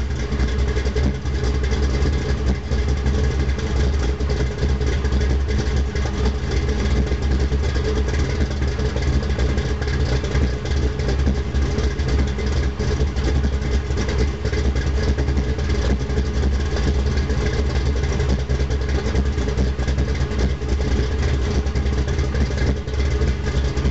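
A 1955 Chevy wagon's 360 cubic-inch small-block V8 idling steadily, heard at the exhaust from behind the car.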